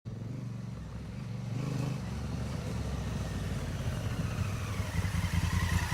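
Motorcycle engine running at low revs, with a brief rise about one and a half seconds in before settling back to a steady pulsing beat.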